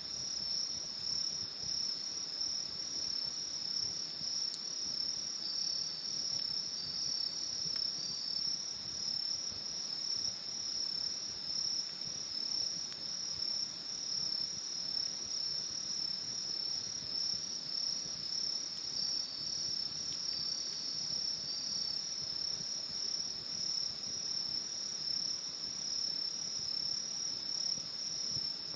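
A chorus of crickets chirring continuously in a high, steady, finely pulsing tone, with a second, slightly lower trill joining twice for a few seconds.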